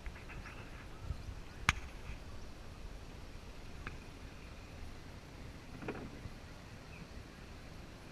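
A small boat on calm water: a steady low rumble with a single sharp knock about two seconds in and a couple of faint clicks later.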